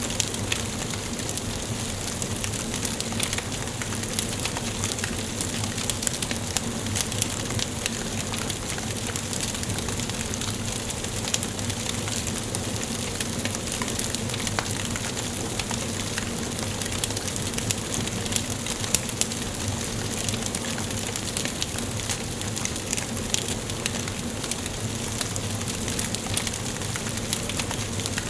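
Wood fire burning in a fireplace, with a steady hiss and frequent small irregular crackles and pops.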